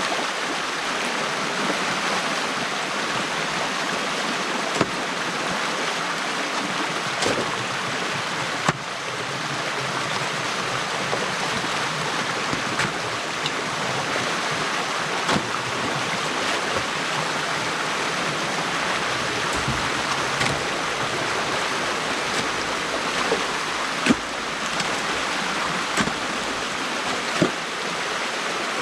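Water rushing steadily through a breach in a beaver dam, with scattered sharp knocks every few seconds.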